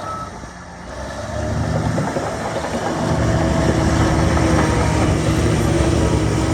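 Heavy diesel engine of earthmoving machinery, dipping briefly and then building up over a couple of seconds to run steadily loud, as under load. A reversing alarm beeps once at the very start.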